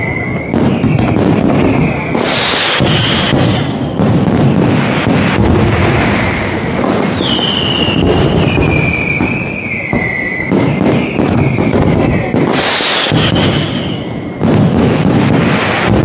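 Aerial fireworks display: a dense, continuous barrage of shell bursts and crackling, with two loud hissing surges of crackle about two and a half seconds in and again about twelve and a half seconds in.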